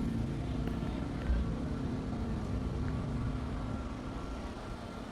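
A car engine running steadily at low revs, with a brief low thump about a second in.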